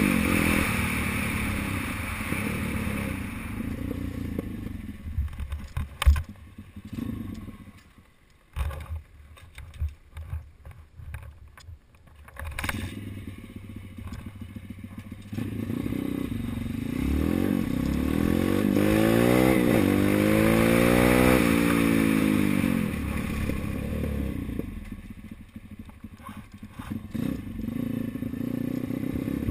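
Bastos 140cc big-wheel dirt bike engine being ridden, revving and easing off. The engine falls away after a few seconds and there is one sharp knock. A quieter stretch with scattered knocks and rattles follows. Then the revs climb and fall again for several seconds, ease off, and pick up once more near the end.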